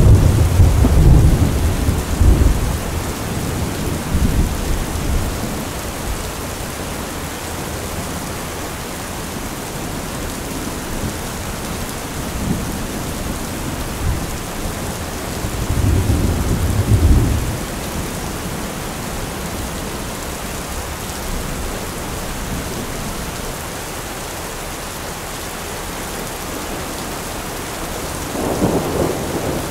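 Steady rain with rolling thunder: low rumbles swell in the first few seconds, again about halfway through, and once more near the end.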